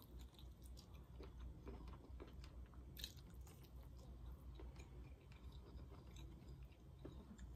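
Faint close-miked chewing and biting of tender adobo chicken: soft wet mouth clicks and smacks, with one sharper click about three seconds in.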